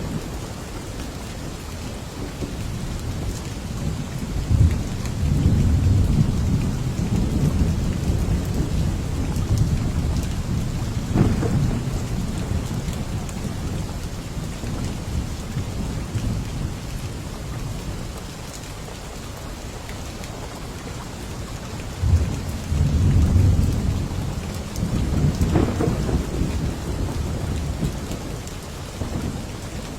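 Steady rain falling, with thunder rumbling twice: a long low roll starting about four seconds in, and another starting a little after twenty seconds.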